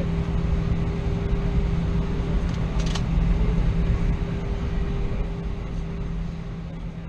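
Steady low rumble inside the cabin of an Airbus A320 taxiing after landing, its jet engines at idle, with a steady hum over it; the sound starts to fade near the end.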